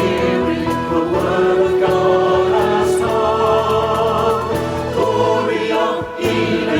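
Choir singing long held notes in several parts, with a brief break near the end.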